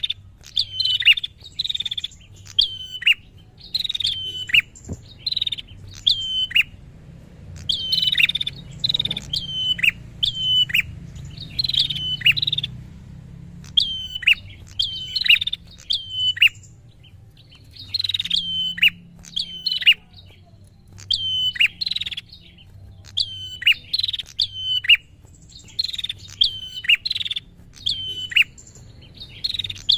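Prinia (prenjak) calling insistently: sharp chirping notes, each starting high and dropping steeply at the end, given in quick runs of two to five with short pauses between runs.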